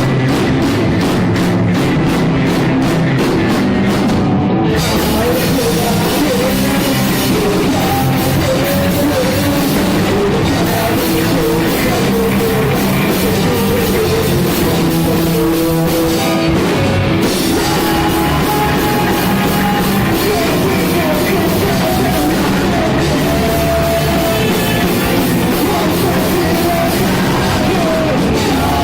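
Punk rock band playing loud and live, with drums and distorted guitars. About four and a half seconds in, the cymbals fill in and the full band plays on steadily.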